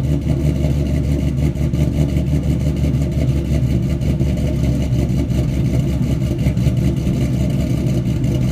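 The supercharged 5.8-litre V8 of a 2014 Ford Shelby GT500, with aftermarket cams, Kooks headers and an off-road X-pipe, idling steadily after a cold start, with a choppy, uneven cam lope through the exhaust.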